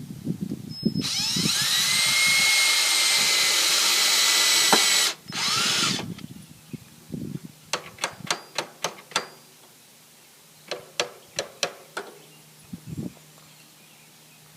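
Power drill running for about four seconds, its pitch rising as it spins up, then a second short burst. A string of sharp clicks and taps follows.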